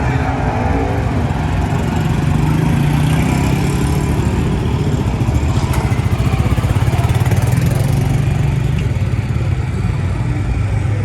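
A car engine running close by with a loud, deep, steady rumble. The rumble pulses more strongly for a few seconds around the middle.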